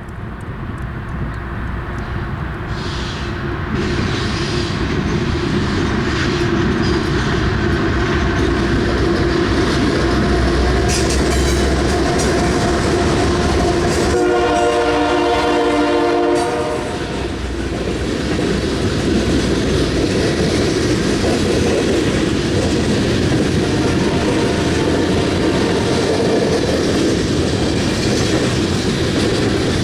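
Loaded coal train passing: the locomotives' rumble swells over the first few seconds and holds loud. About halfway through, the locomotive horn sounds once for about two and a half seconds, then the steady rolling of the loaded coal cars over the rails continues.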